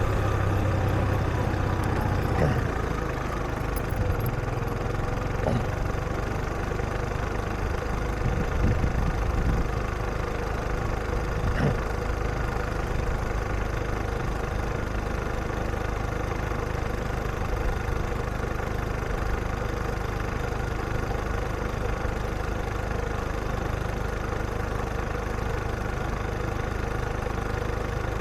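Street traffic: vehicle engines running and idling steadily, with a low hum strongest at the start and a few short knocks.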